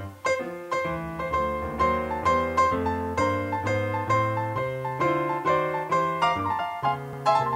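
Background piano music, a steady run of notes at about three a second.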